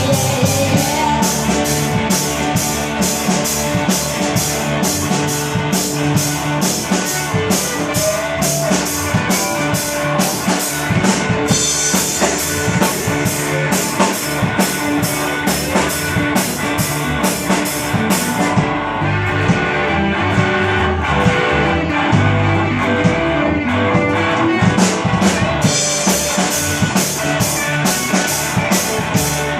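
Live rock band playing an instrumental passage with no vocals: guitar over a drum kit keeping a steady cymbal beat. The cymbals drop out for several seconds past the middle, then come back.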